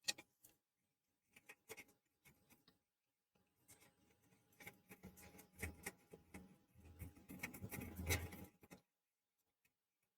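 Faint scratchy rubbing with a few light clicks, strongest in the middle and latter part: old thermal paste being wiped off the PS4 Slim's APU chip.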